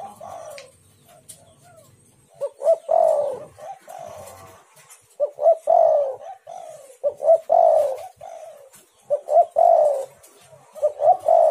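Spotted dove cooing: repeated phrases of a few short coos, each closing on a longer falling coo, about every two seconds.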